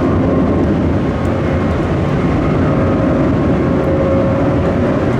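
Jet airliner engines running loud and steady: a dense low rumble with faint steady whining tones over it.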